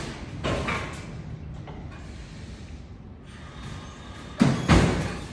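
Knocks and clatter, such as a door or metal gear being handled: a short rattle about half a second in, then two loud bangs in quick succession about four and a half seconds in.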